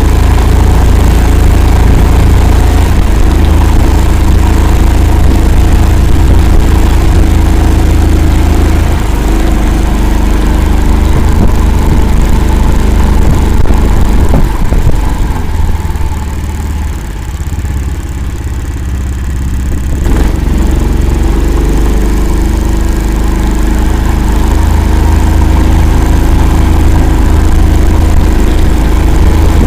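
Engine of an Akula all-terrain vehicle running loudly and steadily as it drives through a swamp; about halfway through it eases off for several seconds, then picks up again.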